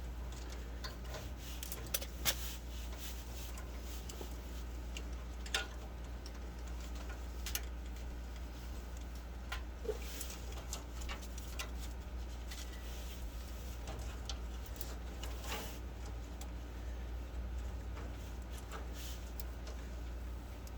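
Scattered small clicks and taps of wire connectors and clips being pulled off and pushed onto a furnace control board, over a steady low hum.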